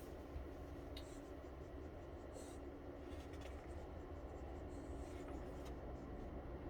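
Faint scratching and rustling as a flexible thin-film solar panel and its packaging are handled and turned over, a few light scrapes over a low steady hum.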